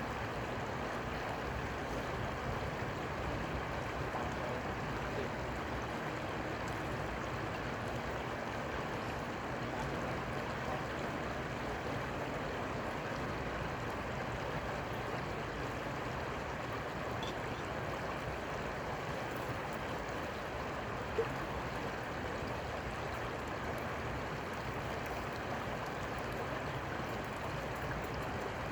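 Steady rush of flowing river water, even and unbroken, with one faint tick about twenty seconds in.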